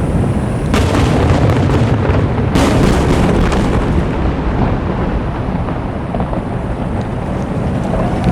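Aerial fireworks shells bursting: a continuous rumble of booms and echoes, with showers of crackling about a second in and again from about two and a half to four seconds.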